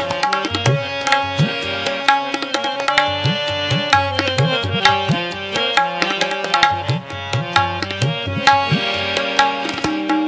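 Instrumental interlude of Sikh shabad kirtan: tabla playing a steady, busy rhythm with gliding bass strokes on the bayan, under held harmonium notes.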